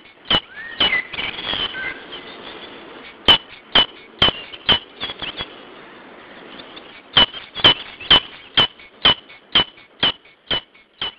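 A bird giving sharp, clicking calls about twice a second, in two runs broken by a pause of about two seconds in the middle. A few softer, gliding calls are mixed in near the start.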